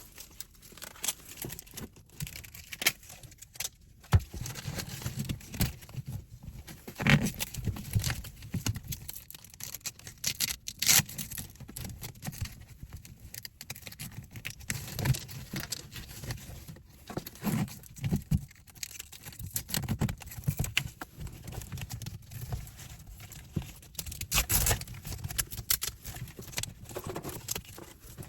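Irregular knocks, clicks and rustling from hands fitting a mirror accessory into a car.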